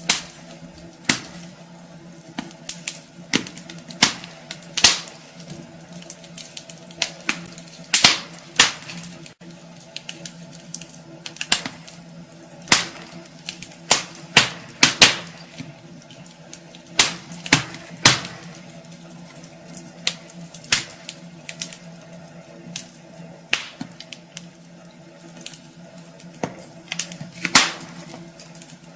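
Wood fire burning in a fireplace, crackling with sharp irregular pops, one or two a second, over a steady low hum.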